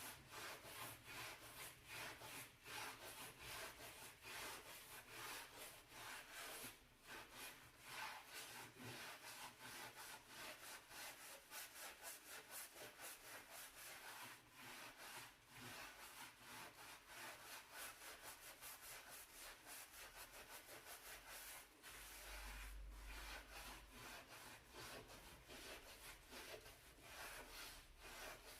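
Brush scrubbing a dirty stove in quick back-and-forth strokes, a fast, even, scratchy rasp several strokes a second, played quietly.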